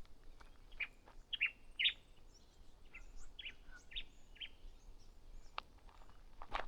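Small wild birds chirping in bushland: a quick run of short, high chirps through the first four seconds or so, then a couple of footsteps on the track near the end.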